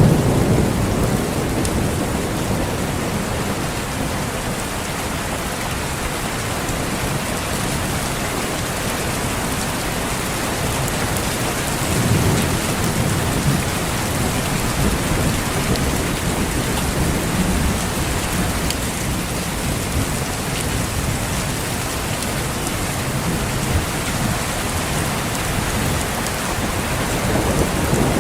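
Steady rain falling with rumbles of distant thunder, one rolling in about twelve seconds in and another building near the end.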